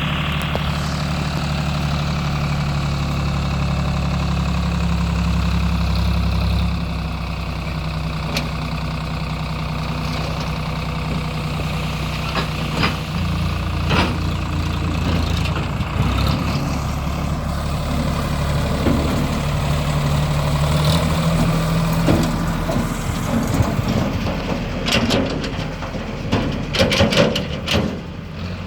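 Tractor diesel engine running steadily with a deep hum, easing to a slightly lower level several seconds in. Scattered sharp knocks and clanks come in during the second half, bunched together in a clatter near the end.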